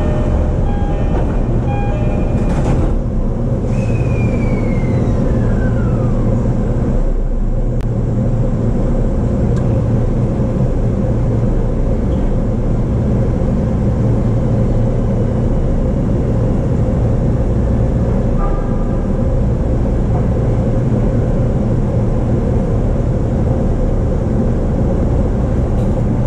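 JR East E233-series electric train running at speed, heard from inside the car: a steady heavy rumble of wheels on the rails. Brief ringing tones come in the first two seconds and again about two-thirds of the way through, and a high tone glides down in pitch a few seconds in.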